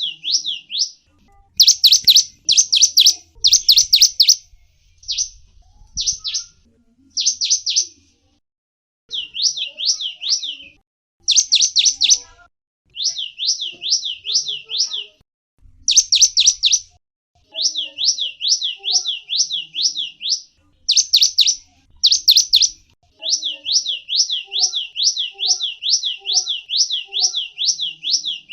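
Gelatik wingko songbird singing: rapid runs of high, down-slurred chirping notes, about five a second, repeated in phrases of one to several seconds with short pauses between.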